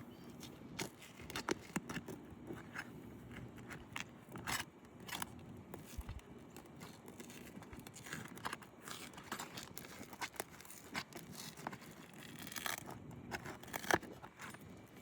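Asphalt roof shingles being worked during a shingle repair: irregular scrapes, crackles and sharp clicks as the shingle is pried and handled, with one louder click near the end.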